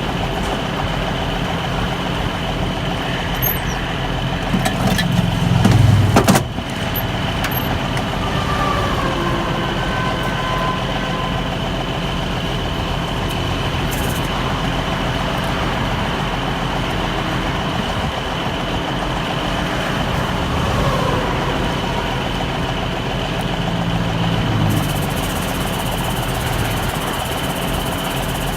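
Truck engine running steadily, its revs rising briefly about five seconds in and again, less strongly, near the end.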